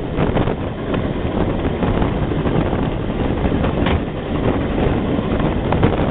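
Wind buffeting a microphone held out of the window of a moving passenger train, over the steady rumble of the train running on the track, with a few brief knocks.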